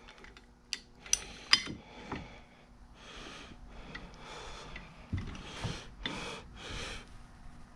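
Three sharp metal clinks in the first two seconds as the vise's mounting nut is tightened. These are followed by a man's heavy breaths from the effort.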